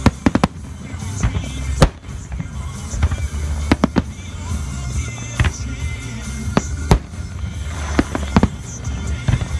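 Aerial firework shells bursting in the sky: a quick cluster of sharp bangs right at the start, then single bangs and close pairs every second or so. Music plays underneath.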